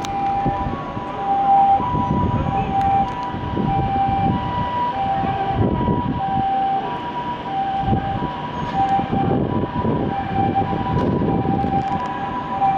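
Two-tone electronic railway warning signal alternating between two pitches, each held about half a second, over a low, uneven rumble.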